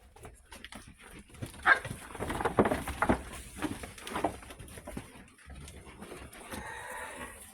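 A dog close by: a run of short, noisy sniffs and pants, the loudest about two to three seconds in, then a brief pitched call near the end, over a low rumble.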